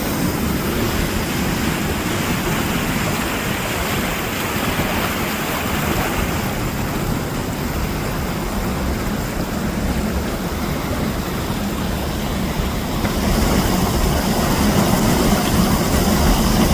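A steady, loud rushing noise, even and unbroken, with no speech.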